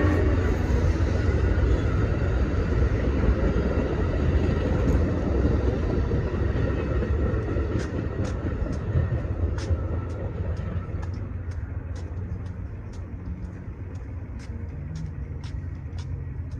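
Passing train rumbling and slowly fading as it moves away. In the second half there is a steady run of sharp clicks, about two or three a second.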